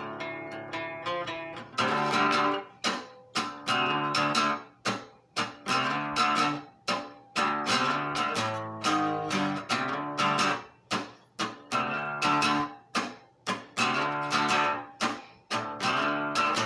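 Acoustic guitar in an instrumental break: soft picked notes at first, then about two seconds in, loud rhythmic strumming of chords with short, sharply cut gaps between phrases.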